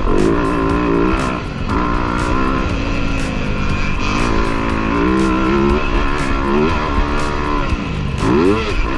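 Motocross dirt bike engines revving, rising and falling in pitch over and over as the bikes accelerate and back off, with music playing along.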